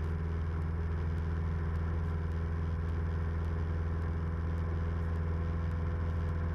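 Steady drone of a Cessna 172M's engine and propeller in flight, the four-cylinder Lycoming O-320 running at a constant setting with an even hiss of airflow.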